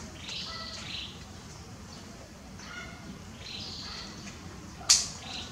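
Birds chirping twice over outdoor background noise, in short high arching calls. A single sharp click about five seconds in is the loudest sound.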